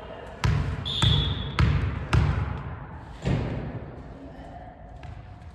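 A volleyball being struck during a rally: four sharp smacks over about three seconds, each ringing on briefly, with a short high squeak about a second in.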